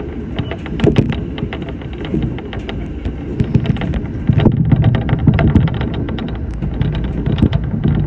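Shinano Railway SR1-series electric train running, heard from inside the front of the car: a steady low rumble with many quick rattles and clicks.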